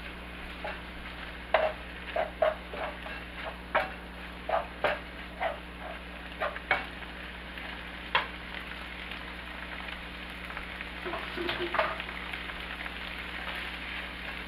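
Shaved chicken, onions and bell peppers sizzling in a frying pan as they are stirred with a wooden spatula. Short scraping and tapping sounds of the spatula against the pan come often in the first half and again a little before the end.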